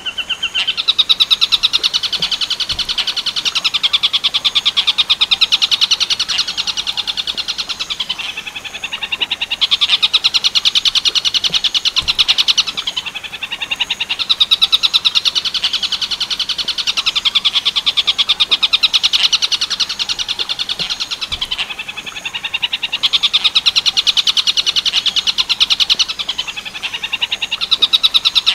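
Tengkek buto 'werkudoro' bird call, a loud, very rapid chattering trill used as masteran for training cendet (long-tailed shrikes). It comes in phrases of several seconds, broken by pauses of a second or two.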